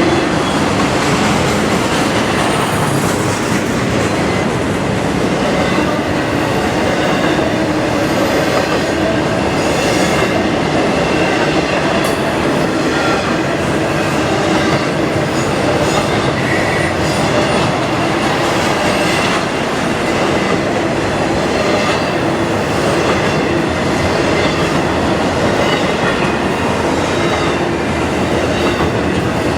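A train's cars rolling past at speed close by: a steady, loud rumble of steel wheels on rail with scattered clicks.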